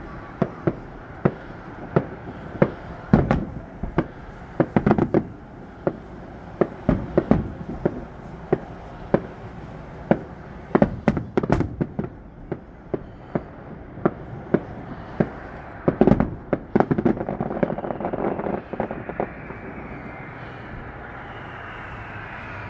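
Fireworks display: a steady run of sharp bangs, about one or two a second, each trailing off in echo, with a denser crackling volley about three-quarters of the way in. The bangs stop a few seconds before the end.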